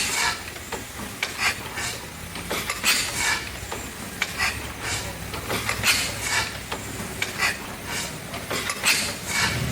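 1890 Murray Iron Works Corliss steam engine running slowly, its valve gear giving sharp metallic clicks in an even rhythm about every second and a half, some in quick pairs, over a low steady rumble.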